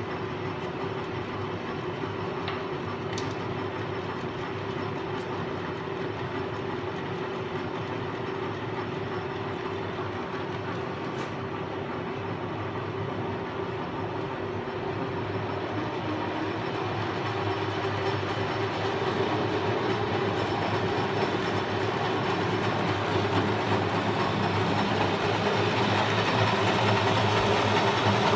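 Sheldon WM56P metal lathe with variable-speed drive running steadily, a constant mechanical hum with a few light ticks early on. It grows louder through the second half.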